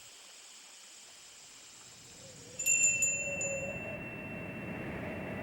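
A faint high, steady background, then about two and a half seconds in a bell-like chime is struck with a few sharp clicks and rings on with a steady, bright tone.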